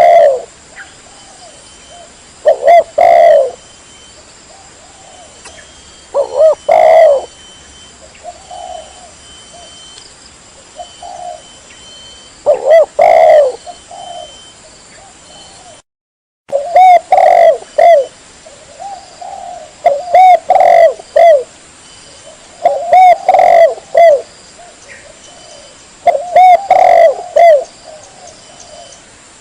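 Spotted dove (tekukur) cooing loudly, repeating its coo phrase every few seconds over a faint steady hiss. The sound cuts out completely for a moment about halfway through.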